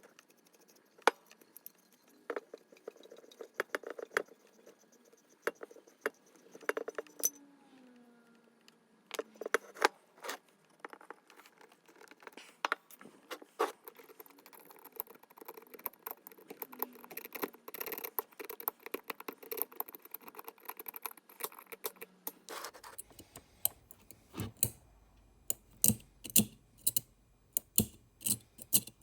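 Metal parts of a Stanley Bailey No. 5 hand plane clinking and scraping as it is taken apart by hand, with many sharp, irregular clicks.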